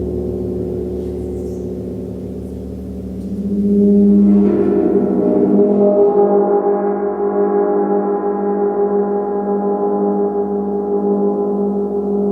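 Gong ringing with layered, sustained tones that swell louder about three to four seconds in as it is played again, then hum on with a slow pulsing waver.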